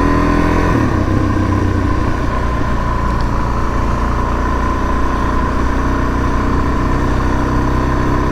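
Suzuki DRZ400S single-cylinder four-stroke engine running as the dual-sport bike is ridden. The revs climb, then drop off abruptly about a second in, then the engine runs on steadily.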